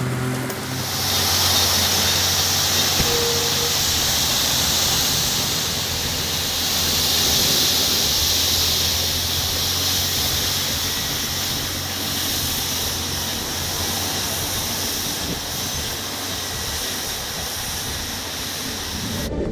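Mack dump truck running, with a low steady hum under a loud steady hiss that comes up about a second in.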